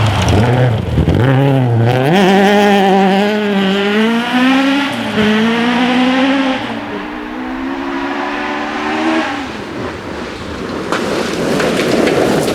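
Historic rally car's engine at full throttle on the stage, its pitch climbing, with a drop at a gear change about five seconds in, then fading as the car goes away near nine seconds. A broad rush of noise rises near the end.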